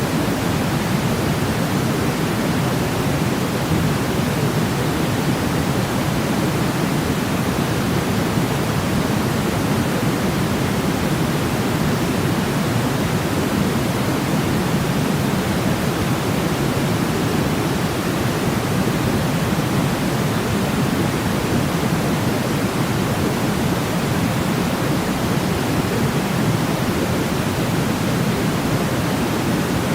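Steady white noise for infant sleep: a deep, even hiss weighted toward the low end, with no change in level or character.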